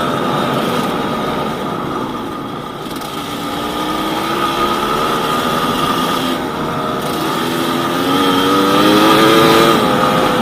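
Yamaha DT200WR's two-stroke single-cylinder engine pulling on a ride, its note sinking briefly and then climbing twice as the revs rise, loudest just before the end.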